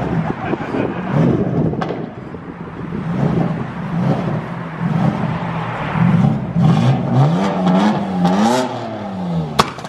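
Car engine revving in repeated blips, its pitch rising and falling, with a longer rev that climbs and falls near the end. A sharp click comes just before the end.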